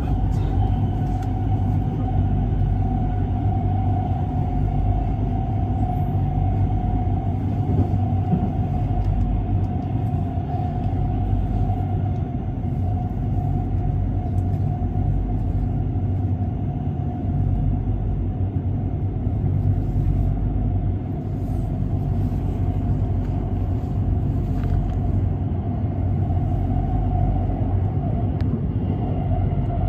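Train running: a continuous low rumble with a steady, unchanging whine over it.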